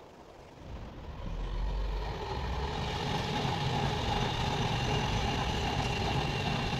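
Engine noise of a heavy vehicle, swelling about a second in and then holding steady, a low rumble with a steady whine over it.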